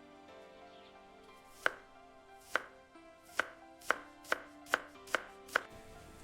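Kitchen knife chopping on a cutting board: eight sharp chops, a second or so apart at first, then coming faster, about two a second, toward the end.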